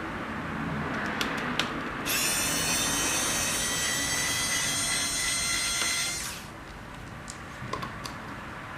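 A small electric motor runs with a steady high-pitched whine for about four seconds, starting about two seconds in and cutting off sharply. There are scattered clicks of handling before and after.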